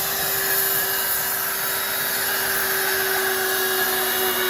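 A motor-driven machine running steadily, giving a constant whine with a rushing, air-like hiss.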